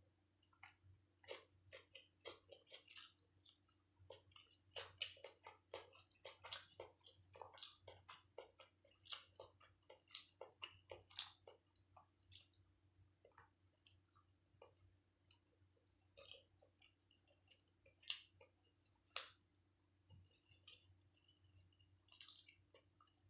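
Close-miked wet chewing and mouth smacking of someone eating chicken biryani: irregular sharp smacks and clicks, thick at first, thinning out in the middle, with one loud smack near the end.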